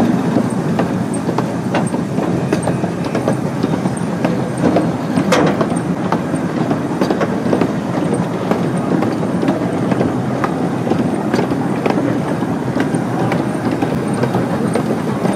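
A small park train running along its track, heard from inside an open-sided passenger car: a steady rolling rumble with scattered clicks from the wheels on the rails.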